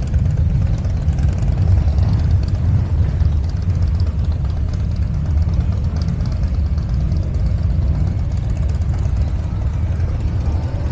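Motorcycle engines running at low revs, a steady low rumble that does not let up.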